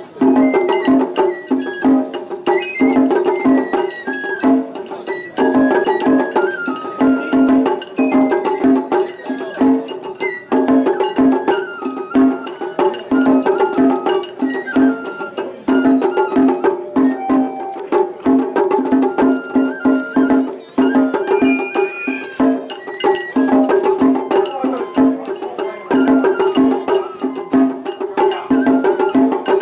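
Matsuri-bayashi festival music: a bamboo flute plays a bending melody over fast, steady taiko drumming.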